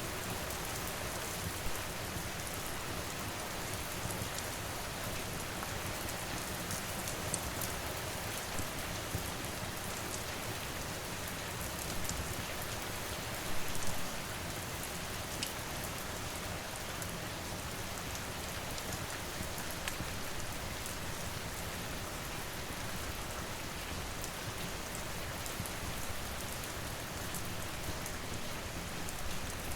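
Steady rain falling, mixed with a crackling fire that gives scattered sharp pops, and a brief louder surge about thirteen seconds in.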